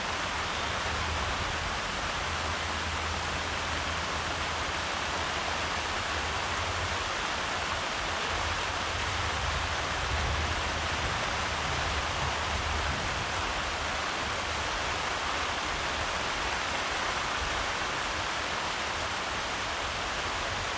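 Steady rain falling, an even hiss with a low rumble underneath and no separate drops or thunder standing out.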